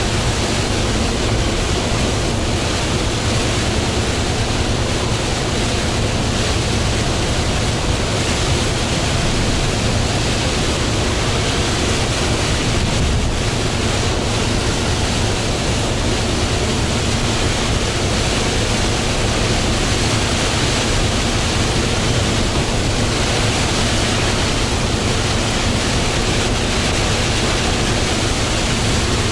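Steady, loud rush of rain, tyre spray and wind from a Hino Profia heavy truck driving at speed on a wet expressway, with a low steady engine drone underneath.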